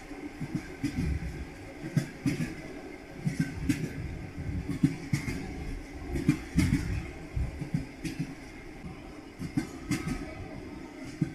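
Train wheels clacking over rail joints under a steady rumble of a moving railway carriage: a run of uneven low knocks and sharper clicks.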